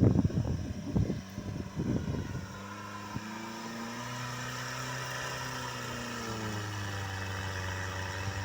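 The all-terrain vehicle's 1.5-litre Toyota 1NZ-FE petrol engine is working under load on a snowy climb with the wheels slipping. The first couple of seconds are irregular jolts and thumps as the machine bucks. After that the engine settles into a steady note that rises a little and then eases off.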